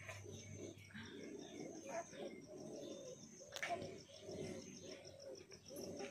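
Faint bird calls, with a fast, even high ticking in the background.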